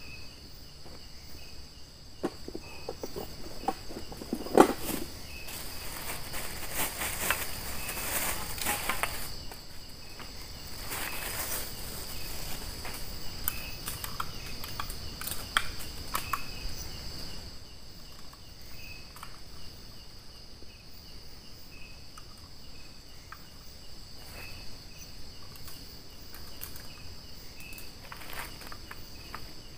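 Crickets and other night insects trilling in a steady, high chorus. Scattered crackling rustles and knocks sound over it during the first half, the sharpest about four seconds in.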